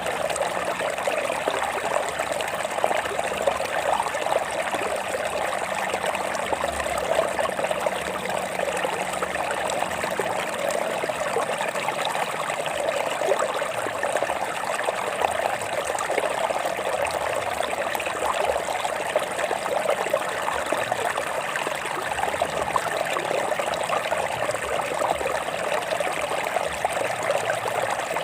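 Water of a small stream trickling and splashing over rocks, a steady babbling rush.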